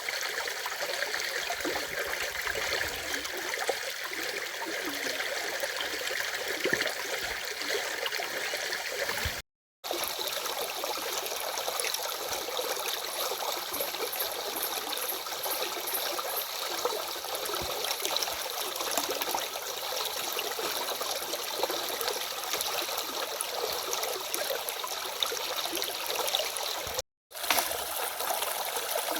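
A stream running steadily over its bed, an even rush of flowing and trickling water with little low rumble. The sound cuts out for a moment twice, about a third of the way in and near the end.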